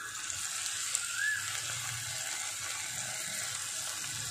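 Chicken pieces and green coriander paste sizzling in butter in a frying pan while being stirred with a silicone spatula: a steady hiss.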